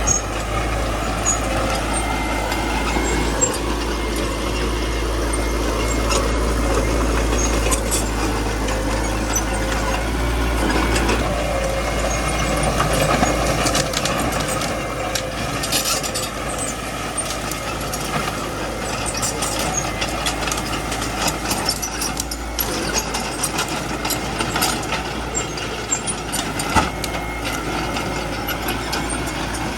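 Small bulldozer's diesel engine running steadily while it works, with scattered short clicks and knocks; the sound eases a little from about halfway.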